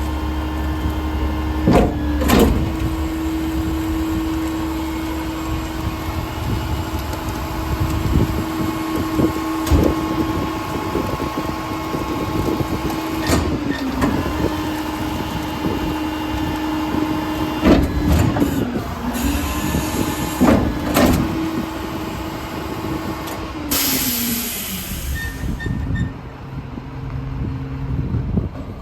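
Mack RD garbage truck running with a steady whine while its Leach 2R-II rear packer cycles, with repeated metal bangs and clunks. About 24 seconds in, a sharp hiss of air sounds and the pitch of the running truck drops.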